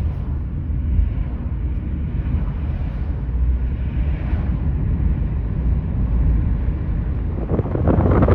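Steady low rumble of a moving vehicle heard from on board, with wind buffeting the microphone in the last second or so.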